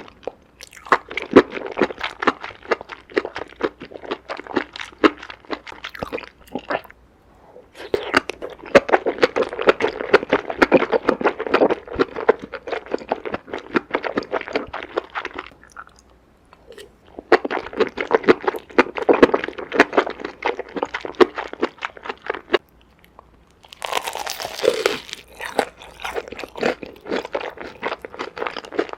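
Close-miked eating sounds: crunchy chewing and biting in long stretches, broken by three short pauses of about a second.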